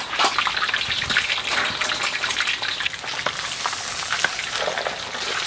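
Whole catfish pan-frying in hot oil in an iron wok, sizzling with a dense crackle of spattering oil.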